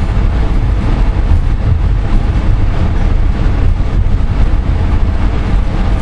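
Interior running noise of a moving VIA Rail passenger train, heard inside a Skyline dome car: a steady, loud low rumble from the wheels and car body on the rails.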